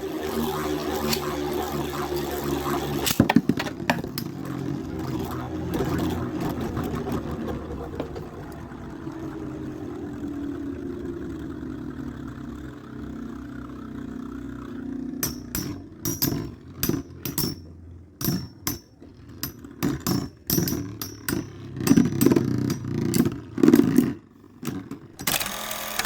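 Two spinning Beyblade tops, Storm Pegasis 105RF and Burn Phoenix 135MS, whirring, the hum slowly falling in pitch as they lose speed. From about fifteen seconds in, a run of sharp, irregular clacks as the tops knock together and rattle.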